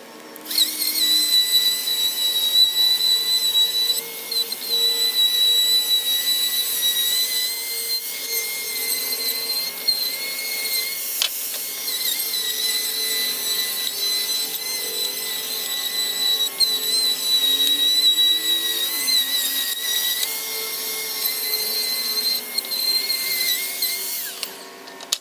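DeWalt 13-inch thickness planer running with a white oak board feeding through, a loud, steady high-pitched whine over cutting noise. It starts about half a second in and shuts off near the end.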